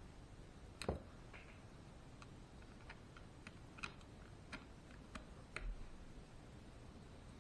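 Scattered small clicks and taps of parts and tools being handled while assembling the rear end of a Traxxas E-Maxx RC truck, with a sharper knock about a second in.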